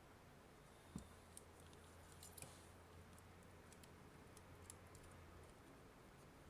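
Near silence: room tone with a low hum and a few faint clicks, one about a second in and a small cluster around two and a half seconds.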